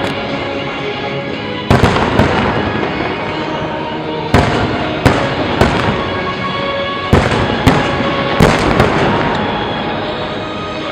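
Aerial fireworks bursting: about eight sharp bangs, some in quick pairs, over music playing throughout.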